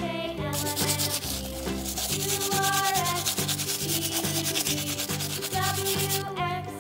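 Small stiff-bristled scrub brush scrubbing a mud-caked die-cast toy car held in the hand: a fast, scratchy rubbing that starts about half a second in and stops shortly before the end. Background music with a pulsing bass plays throughout.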